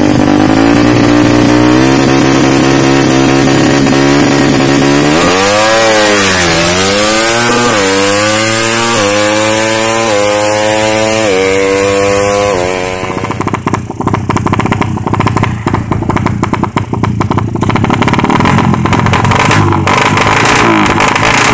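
Tuned drag-bike motorcycle engine with a ported head, a Suzuki Satria FU, holding a steady note, then pulling away hard, its pitch climbing and dropping back with each of several quick upshifts. After that a rougher, crackling engine note takes over and rises again near the end.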